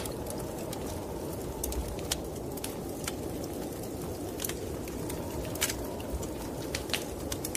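Wood fire burning in a fireplace, crackling with irregular sharp pops over a steady low rushing noise.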